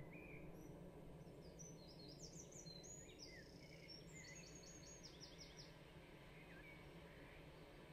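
Faint birdsong: scattered chirps, with a run of higher, quickly repeated song notes in the middle, over a low steady background hum.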